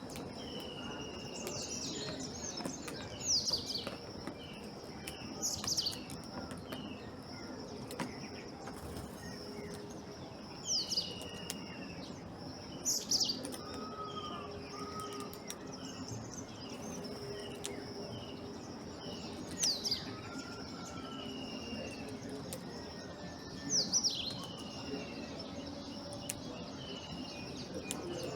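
Several birds chirping and calling, with a loud, sharp, falling call every few seconds and softer whistled notes between, over a steady high-pitched hum.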